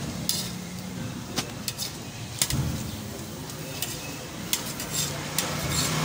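Lachha parathas sizzling on a large flat griddle, with irregular sharp clicks and scrapes of metal tongs against the griddle as the breads are turned and lifted.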